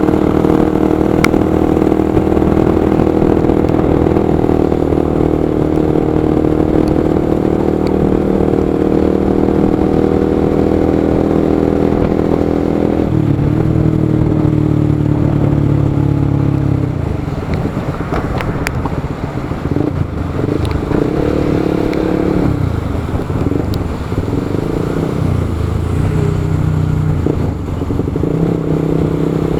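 Motorcycle engine running at a steady speed, then dropping in pitch about thirteen seconds in as the throttle is eased off. After that the revs rise and fall unevenly.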